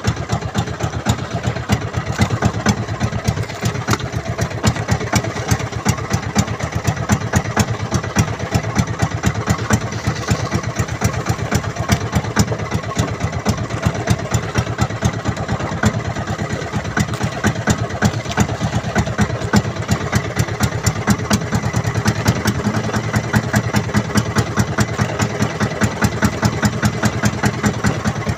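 Small fishing boat's engine running steadily, with a fast, even chugging of firing pulses.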